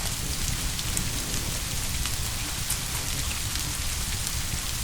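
Steady rain: an even hiss with fine drop ticks and a low rumble beneath, unchanging throughout.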